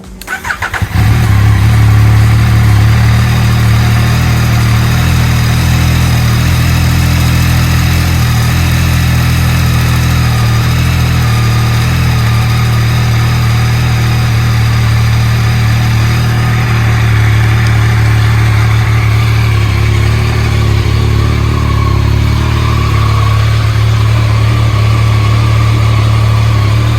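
2021 Yamaha MT-09's three-cylinder engine starting about a second in and then idling steadily on fresh oil just after its first oil change; it is running smooth.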